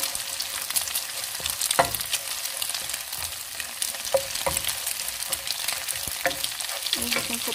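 Scrambled egg sizzling and crackling in hot oil in a frying pan, with a few sharp knocks, the loudest about two seconds in.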